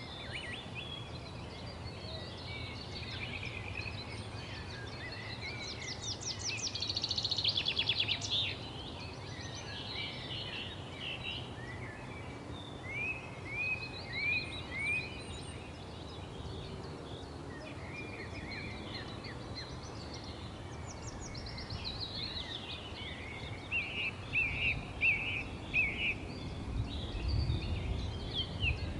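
Several birds chirping and singing together, with a fast trill about six to eight seconds in and runs of short down-slurred chirps later on. A low rumble sits underneath throughout and grows louder near the end.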